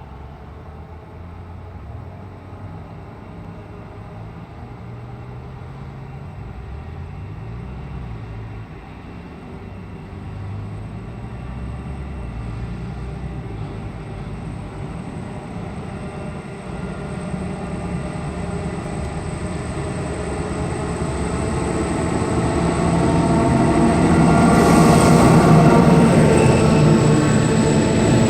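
A train approaching, hauling decommissioned C-set carriages; its low rumble grows steadily louder and is loudest near the end.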